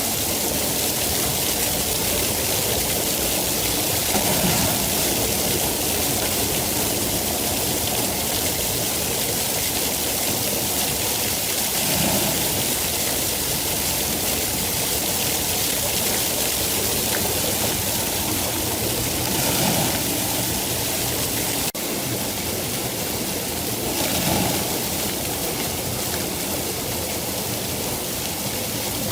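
Steady rain, an even hiss, with a few soft swells in loudness and a brief dip a little after the middle.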